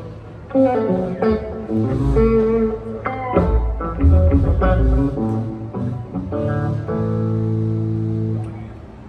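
Guitar and bass guitar playing loose phrases of notes, ending on a long held note.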